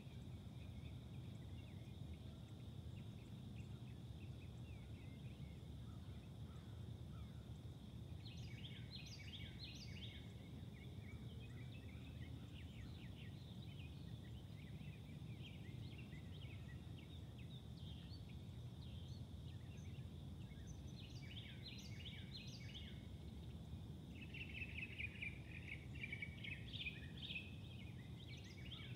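Faint outdoor ambience: a steady low rumble with a thin high tone, and bursts of bird chirping about eight seconds in, again after twenty seconds, and most steadily near the end.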